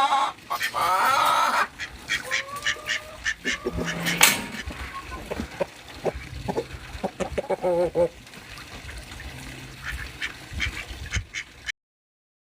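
Poultry calling: a loud honking call in the first second and a half, then shorter sliding calls, over a scatter of short clicks and knocks.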